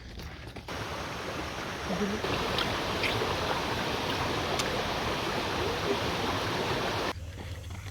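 Rushing water: a steady, even noise that starts abruptly about a second in and cuts off abruptly near the end.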